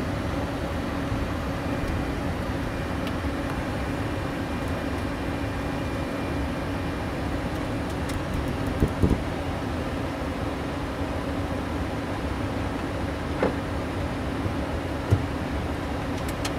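Steady cockpit noise of a Boeing 737-600: a constant hum and low rumble from the engines and air systems, with a few short thumps, a pair about nine seconds in and two more later.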